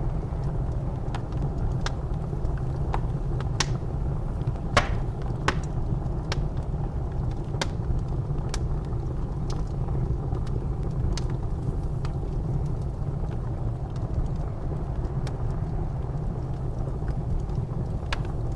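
Wood fire crackling in a fireplace, with sharp pops that come often in the first half and thin out later, over the steady low rumble of blizzard wind.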